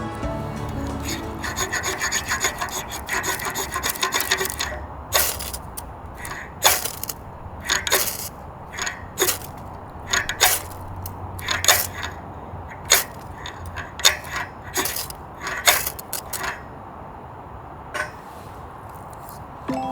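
Wood being cut by hand with a blade or saw. A quick run of rasping strokes comes first, then about twenty separate scraping strokes at roughly two a second, with two last strokes near the end.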